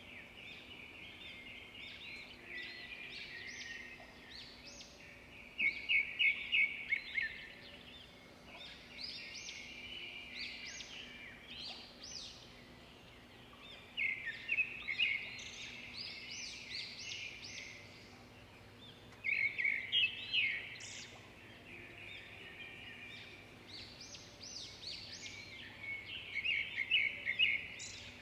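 Birds singing: a steady chorus of chirps, with several louder bouts of rapid repeated trilling notes, over a faint steady background hum.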